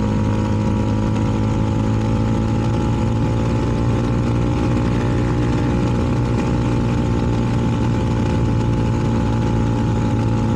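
CFMoto 300NK's single-cylinder engine idling steadily at constant revs through its aftermarket KO exhaust.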